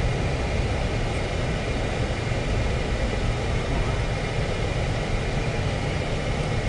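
Car driving, with a steady low rumble of engine and tyres on a snowy road.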